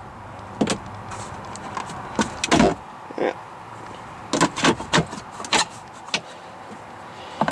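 Scattered clicks and knocks from handling the fittings inside a pickup truck's cab, with one heavier thump a little over two and a half seconds in and a quick cluster of clicks past the halfway point.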